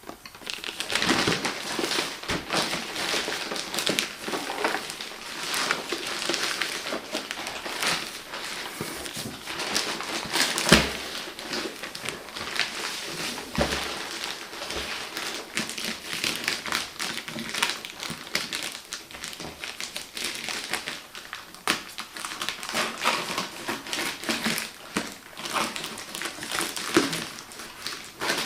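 Product packaging being handled and opened by hand: continuous crinkling and rustling of plastic and cardboard, with scattered clicks and light knocks, one sharper knock about eleven seconds in.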